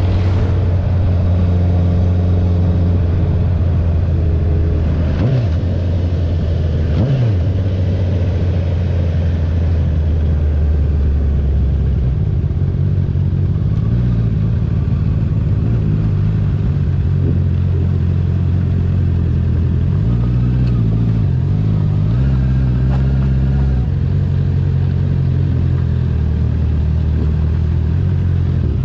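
2021 Honda CB650R's inline-four running through an Akrapovic titanium full-system exhaust with the dB killer removed, riding at a steady pace. The engine note blips briefly about five and seven seconds in, and shifts again a little past twenty seconds.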